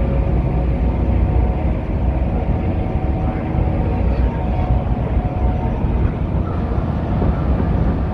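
Steady drone of a car ferry's engines under way, with wind buffeting the microphone.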